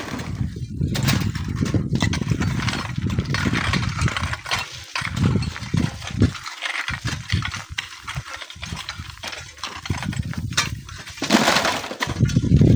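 Strong wind buffeting the microphone in uneven gusts, with a gritty crackle of sand and gravel trickling and sliding down a dry sand cliff.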